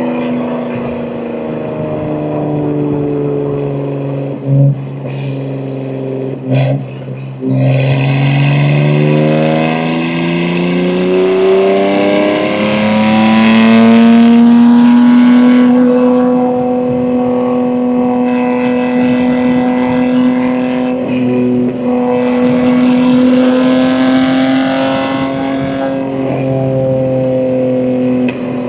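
BMW M2 G87's S58 twin-turbo inline-six with catless downpipes and an equal-length mid pipe: the exhaust note falls for the first few seconds, with two brief sharp sounds around five and seven seconds in. The car then pulls hard with the engine note climbing to its loudest about fourteen seconds in, and settles into a steady cruise for the rest.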